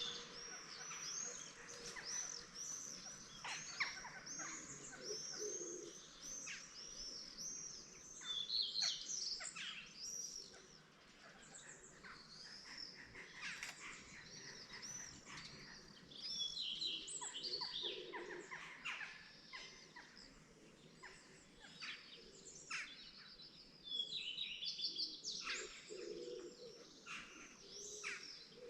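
Morning chorus of several songbirds: a continuous stream of quick high chirps and arching whistled notes, busier and louder in spells about a third of the way in, around two-thirds through and near the end.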